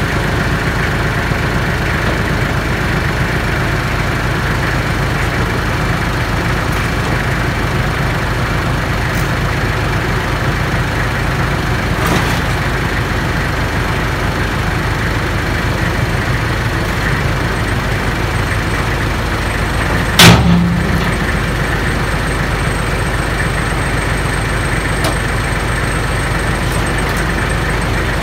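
Kubota L35 tractor's diesel engine running steadily, powering the backhoe hydraulics. A single loud knock about twenty seconds in.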